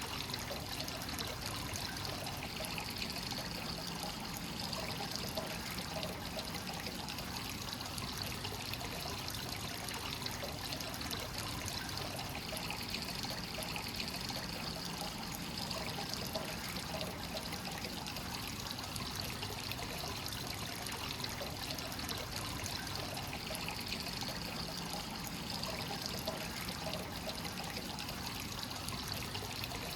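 Hot-spring water pouring steadily into a stone bath from a free-flowing source, an even splashing trickle with no breaks.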